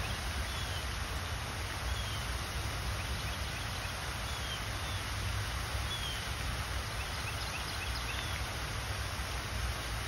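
Pond-side outdoor ambience: a steady low rumble with a faint, even hiss, and faint, short chirps of small birds every second or two.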